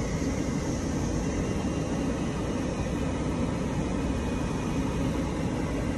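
Steady engine and road noise heard inside a moving 2010 Dodge Avenger's cabin, a low rumble under a broad hiss.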